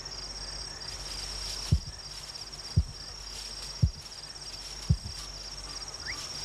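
Male kori bustard giving its deep booming mating call: four short low booms about a second apart. A steady high trill of crickets runs underneath.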